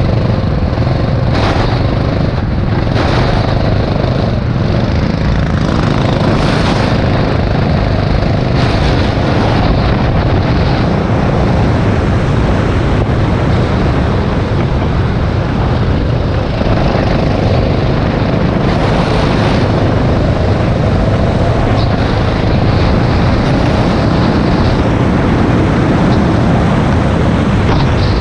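Rental go-kart engine running hard, heard onboard, its note rising and falling, under heavy wind noise on the microphone.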